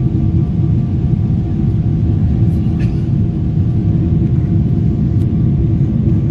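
Boeing 777 cabin noise in flight: the steady low drone of its GE90 engines and the airflow past the fuselage, heard from a seat over the wing, with a faint steady hum on top.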